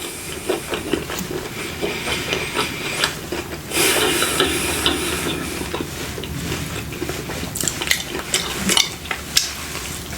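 Close-miked chewing and crunching of fried food, full of small crackles and clicks, with a denser stretch of crunching about four seconds in.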